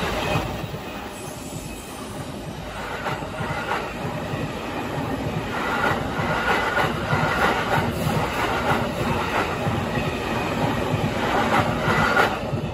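A commuter electric train passing close at speed: steady rumbling with wheels clattering over rail joints and brief wheel squeal, loudest around the middle and again near the end as the last cars go by.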